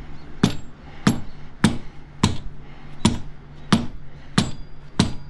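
Rubber mallet striking a motorcycle tire eight times in a steady rhythm, about one blow every two-thirds of a second, knocking the wheel forward as far as it will go so the new chain can be joined.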